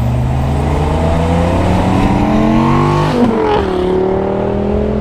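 Dodge Viper's V10 engine accelerating toward and past the listener. Its pitch climbs steadily, then drops sharply about three seconds in as the car goes by, and holds roughly level afterwards.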